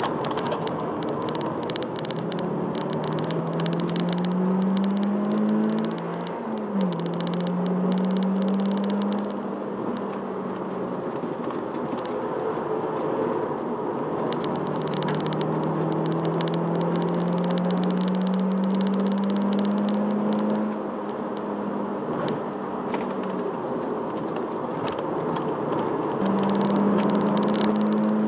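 Toyota Celica engine heard from inside the cabin under hard track driving. The engine note climbs with the revs, drops briefly about six seconds in and again a little after twenty seconds as gears change, then rises again near the end, with road noise and fast light rattling over it.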